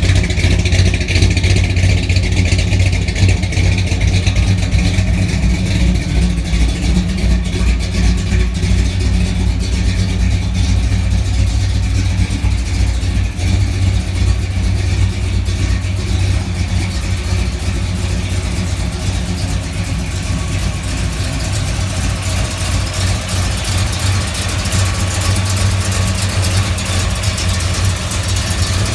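Engine of a 1955 Chevrolet pickup truck running steadily, its sound mostly low-pitched and even, easing slightly in the second half.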